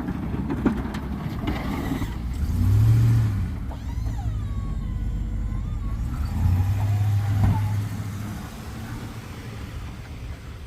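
Truck engine running with a steady low rumble, swelling twice as it is revved, about three seconds in and again about seven seconds in.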